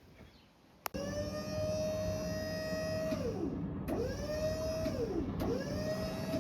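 An electric or hydraulic motor whining at a steady high pitch. It starts abruptly after a click about a second in, then drops away in pitch and spins back up three times, as if repeatedly switched off and on again under load.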